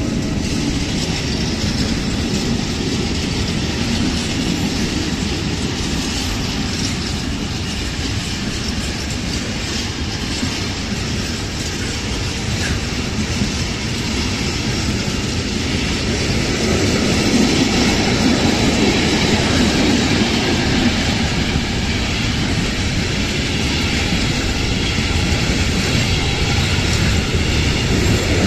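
Long intermodal freight train passing close by on electric traction, its container and trailer wagons rolling over the rails with a steady clatter of wheels. The sound grows louder about halfway through.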